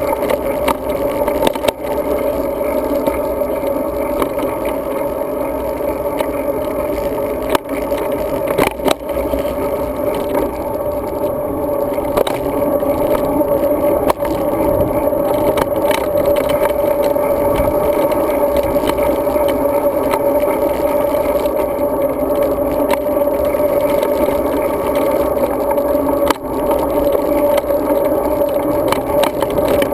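Road bike being ridden: steady wind and road noise with a constant hum, broken by a few sharp clicks.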